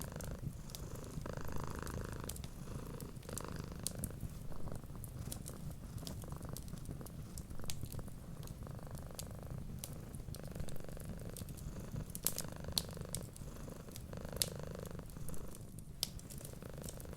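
A cat purring close up, a steady low rumble that swells and eases with each breath every second or two. Sharp pops and crackles from a wood fire are scattered over it.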